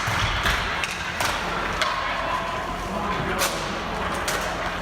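Ball hockey play: a handful of sharp knocks and thuds, sticks striking the ball and each other and the ball hitting the boards, over a background of players' voices.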